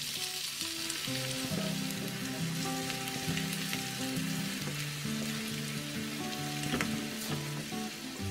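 Sliced onions sizzling and crackling in a little hot mustard oil in a frying pan, stirred with a wooden spatula. Soft background music of held notes plays over it.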